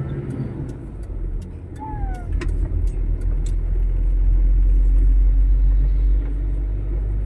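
Low rumble of a motor vehicle, swelling from about two seconds in and easing off sharply near six seconds, with a short squeak-like chirp early on.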